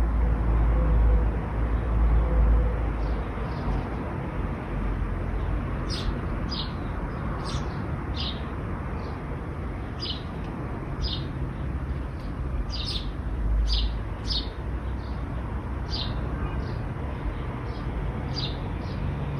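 A bird calls in short, high, falling chirps, repeated about once a second from about six seconds in. Under it runs a steady low rumble of road traffic that swells at the start and again around the middle.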